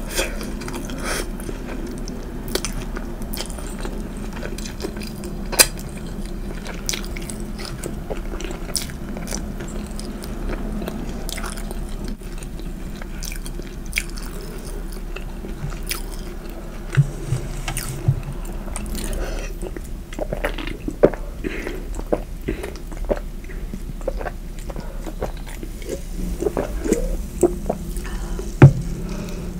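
Close-miked chewing and biting of food, with many sharp wet clicks and crunches scattered through and a few louder bites, the loudest near the end.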